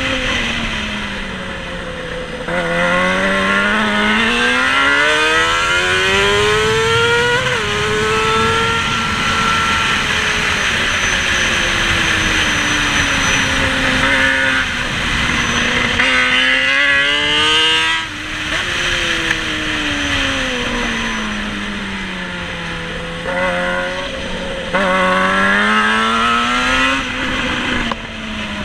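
Racing motorcycle engine heard from on board, revving up hard and then winding down as the rider accelerates and brakes through the corners. This happens several times, with a sharp step in pitch at a gear change, over a steady rush of wind past the microphone.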